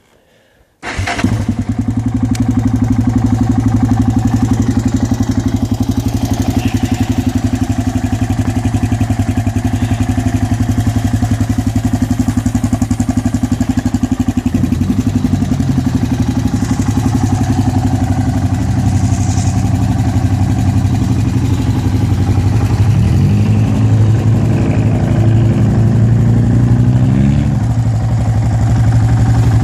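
2001 Yamaha Raptor 660R quad's single-cylinder four-stroke engine cold-starting in freezing weather without choke: it catches about a second in and settles into a steady idle. It is revved briefly about halfway through, and again for a few seconds near the end, pitch climbing and falling back.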